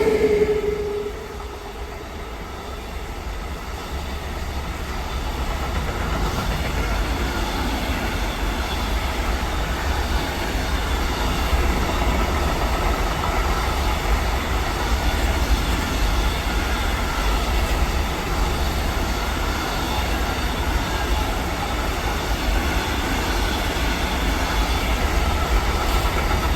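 A train rolling past on the rails: a steady rumble with the clatter of wheels over rail joints, building over the first few seconds and then holding. A pitched note dies away in the first second.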